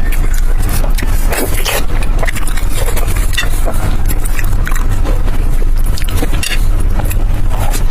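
Close-miked chewing and biting of food, with many short crisp clicks and crunches over a steady low rumble.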